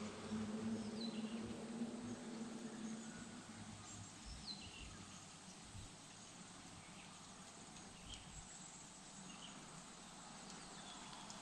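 Faint bird chirps: a few short, high, downward-sliding calls every couple of seconds over quiet outdoor background. A low steady hum is there at first and fades out about three seconds in.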